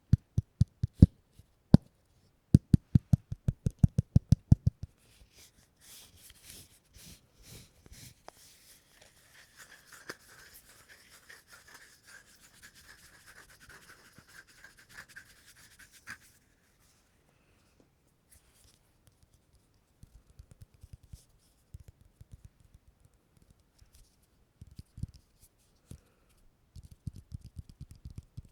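Close-miked sticky ASMR sounds: a quick run of loud, low taps for the first few seconds, then a steady crackling, peeling texture for about ten seconds, then scattered soft sticky clicks.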